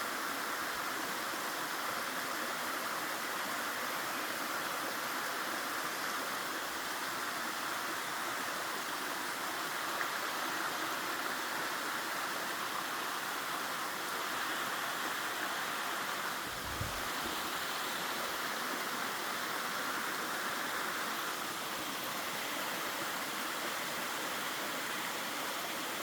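Mountain stream water rushing over rocks, a steady even rush. A single soft low thump sounds about two-thirds of the way through.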